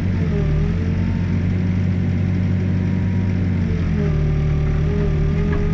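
Backhoe's diesel engine running steadily, with a higher whine that wavers in pitch near the start and again from about four seconds in.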